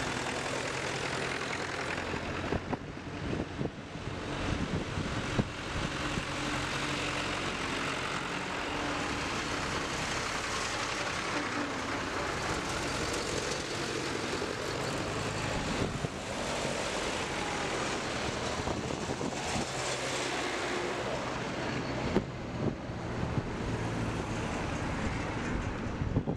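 Tractor engines running steadily, with a dense rushing noise over a low engine drone.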